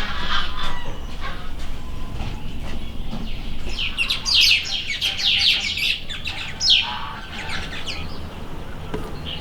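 Small birds chirping: a quick run of short, falling chirps in the middle, over a low steady background rumble.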